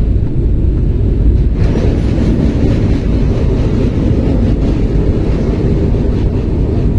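Indian Railways passenger train in motion, heard from aboard: a steady, loud low rumble of the wheels running on the track, growing a little harsher about a second and a half in.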